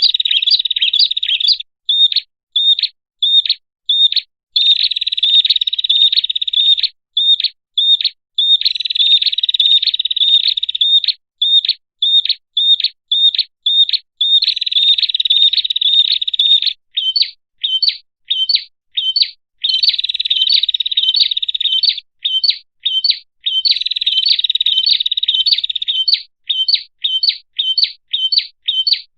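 Prenjak (prinia) lure call: a series of sharp chipping notes, about two to four a second and quickening toward the end, alternating with continuous rattling trills that each last two or three seconds.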